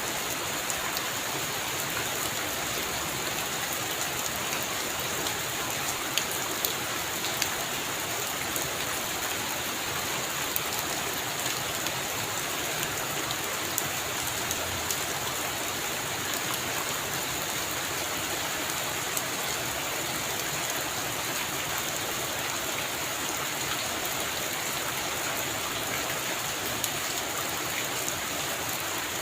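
Heavy rain falling steadily on a roof, an even hiss with many sharp drop ticks.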